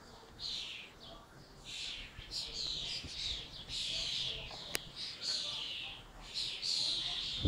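A small bird chirping repeatedly: short high notes, many falling in pitch, one or two a second, with a single sharp click near the middle.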